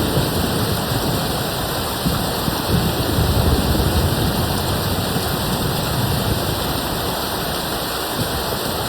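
Steady heavy rain falling, with a low rumble swelling about three seconds in.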